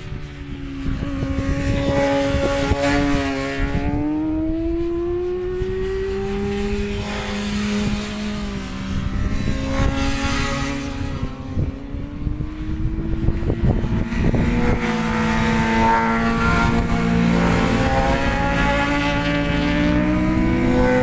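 Several racing motorcycles running on the circuit, their engine notes rising and falling and overlapping as they accelerate and shift through the gears, with wind buffeting the microphone underneath.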